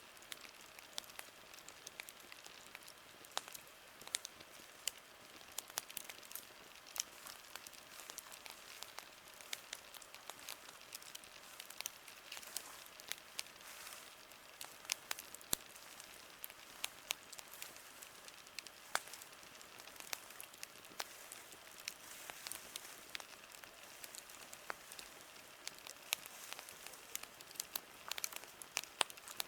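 Campfire crackling, with many irregular sharp pops and snaps over a soft steady hiss.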